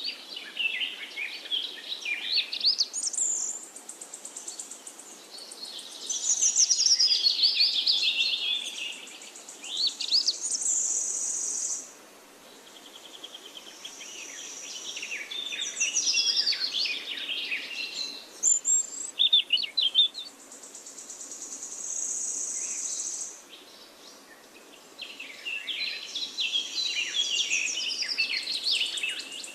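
Songbirds singing in a forest, a busy mix of quick warbling phrases and chirps with short pauses between them. A thin, steady high trill sounds for a couple of seconds at a time, on and off, several times.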